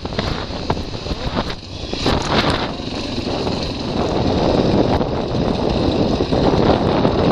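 Wind rushing over the microphone of a moving dual-sport motorcycle, with the bike running underneath; the rush grows louder about halfway through, as with rising speed.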